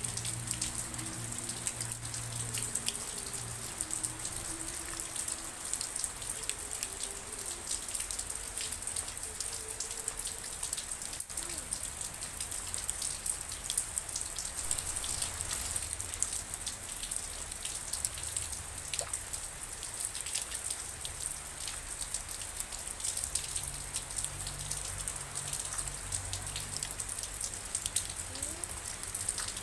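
Steady rain falling, with a dense, even patter of drops hitting a surface.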